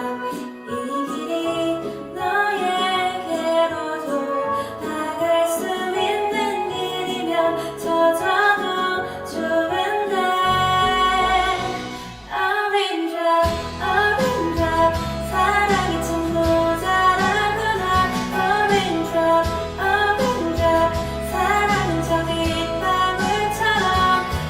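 A song: a female voice singing over an instrumental backing. After a brief dip about halfway through, a low bass part comes in and the music runs on fuller.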